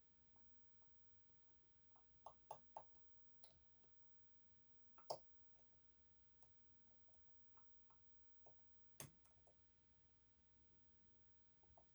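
Faint, scattered clicks of a short hook pick and tensioner working the sliders inside an EVVA 3KS high-security lock: a quick run of three about two seconds in, the sharpest click about five seconds in, and another near nine seconds.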